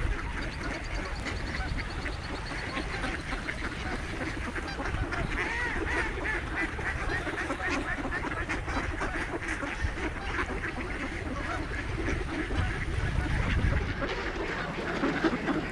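A feeding flock of ducks and Canada geese calling continuously, with many overlapping quacks and honks.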